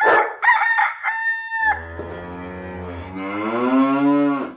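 A dog barks once, then a rooster crows: a short high note followed by a long, drawn-out call that swells near the end.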